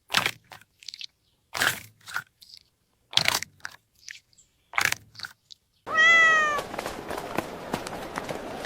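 Four sharp crunching bites, about a second and a half apart. Then, about six seconds in, a cat's single meow that falls slightly in pitch, followed by a steady hissy background with small clicks.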